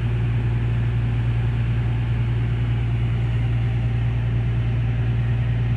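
Large ship's diesel machinery heard on board, a steady low drone with a constant hum that holds the same pitch throughout.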